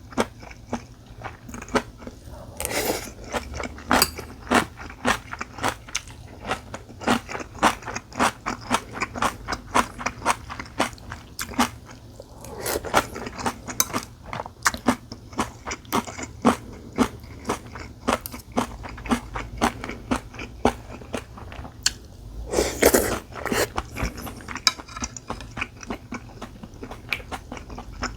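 Close-miked eating sounds: a steady run of wet mouth clicks from chewing, about two or three a second. Three longer, noisier sounds come about ten seconds apart.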